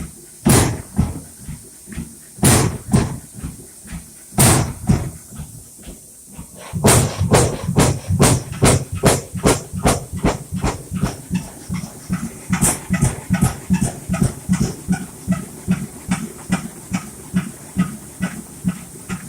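Old Fairbanks Morse stationary engine firing with loud, sharp exhaust beats, at first only about every two seconds. About seven seconds in it starts firing in quick succession and picks up speed into a fast, steady rhythm as it comes up to running speed after a cold start.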